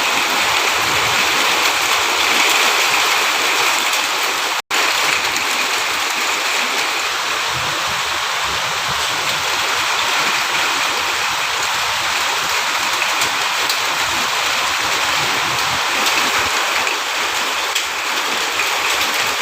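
Steady rain pouring down, an even hiss of falling water, cut off for an instant about five seconds in.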